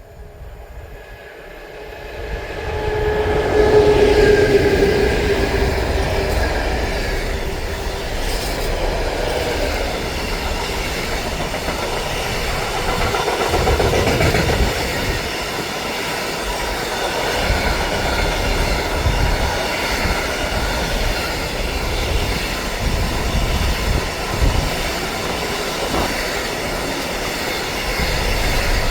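A train passing on the line, its noise swelling over the first few seconds and then staying loud and steady.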